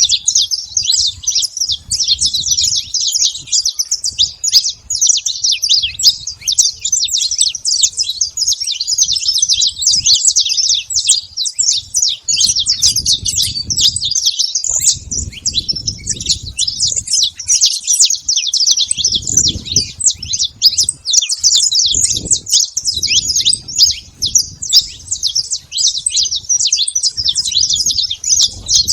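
Saffron finch song: a rapid, unbroken run of high chirping notes.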